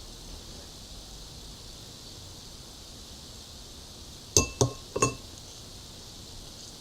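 Fork clinking against a plate three times in quick succession a little over halfway through, each clink ringing briefly, over a faint steady hiss.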